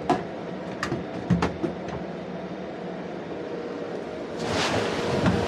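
Steady hum of a delivery van, with several sharp clicks and knocks in the first two seconds as things are handled. About four and a half seconds in, a rushing hiss swells up and stays.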